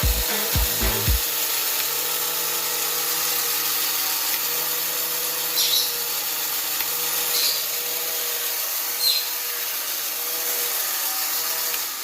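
Battery-operated tin toy's small electric motor and gears running steadily, with a short high chirp about every second and a half. It cuts off suddenly near the end.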